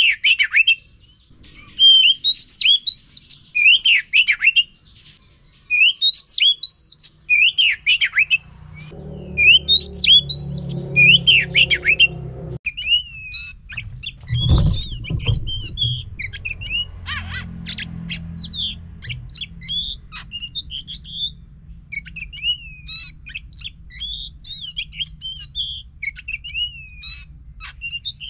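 Oriental magpie-robin (kacer) singing loud, repeated whistled phrases with sharp up-and-down notes, broken by short pauses, then a faster, more varied run of chirps in the second half. A low hum comes in for a few seconds midway, and a dull thump follows just after it ends.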